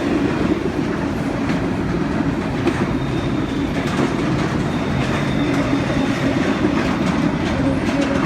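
A Norfolk Southern train's cars rolling steadily past beneath the bridge: a continuous rumble of wheels on rail, with clicking over the rail joints.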